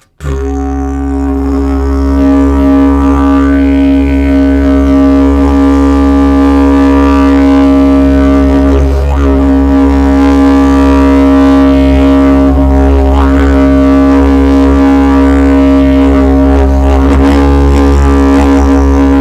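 A loud, very low musical drone held on one steady pitch without a break, rich in overtones, with the tone sweeping briefly a few times around the middle and later on.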